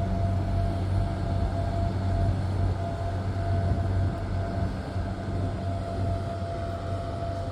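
Steady mechanical drone: a strong low hum with a fainter steady whine above it, easing off slightly about halfway through.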